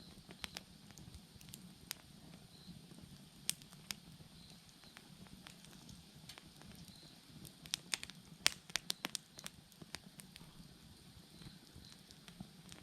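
Wood bonfire crackling, with irregular sharp pops that come thick and fast about eight seconds in. Faint insect chirps recur in the background.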